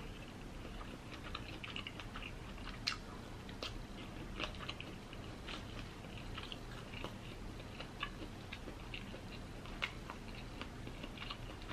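A person chewing seafood with closed lips, with soft wet mouth clicks and smacks at irregular intervals.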